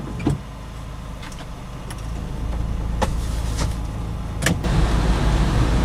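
Car running on the road in the rain, heard from inside the cabin: a steady low engine and road rumble with a few sharp ticks scattered through it, and the rumble grows louder about four and a half seconds in.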